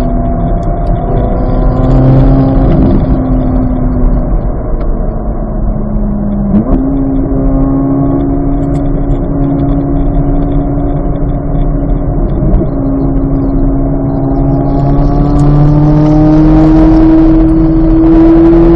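2023 Chevrolet Corvette Z06's flat-plane-crank V8 running hard on track. Its pitch falls at the start, dips and then jumps up about six and a half seconds in, holds steady, and climbs slowly toward the end.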